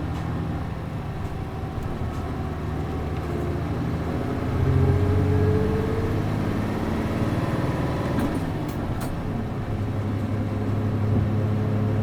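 City bus's MD92TJ diesel engine running, heard from inside the bus. It grows louder about four seconds in, with a rising whine as it pulls, then settles back to a steady drone.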